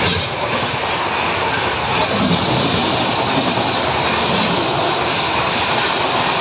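Passenger train running, a steady rumble and rattle heard from inside the coach, growing a little louder about two seconds in.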